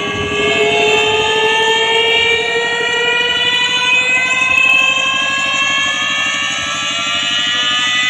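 Large sound horeg sound system playing a loud, siren-like tone rich in overtones that rises slowly in pitch, over a fast buzzing low pulse.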